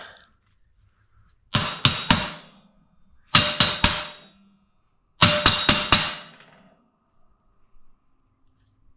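Hammer tapping a part into an ATV's rear steering knuckle to start it in straight: three quick bursts of a few ringing metal-on-metal blows each, a second or so apart.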